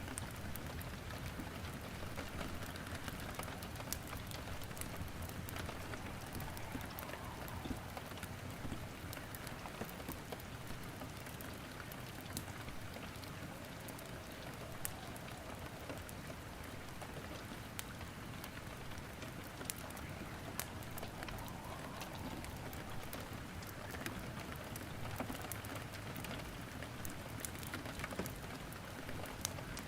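Steady rain falling, with scattered sharp crackles and pops of burning wood in a fireplace.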